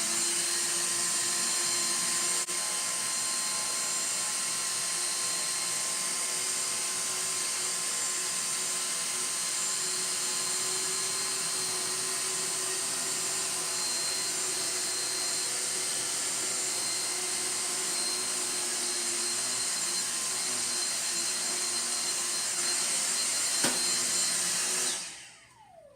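Dyson V6 cordless stick vacuum running steadily with a high-pitched motor whine while it sucks up paper shreds. It is switched off near the end and winds down with a falling pitch.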